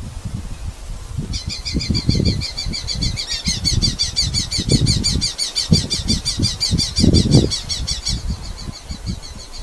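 Red-footed falcons giving a rapid, evenly repeated chatter of high calls, starting about a second in, with a second bird joining in the middle. Irregular low thumps and rustling run underneath.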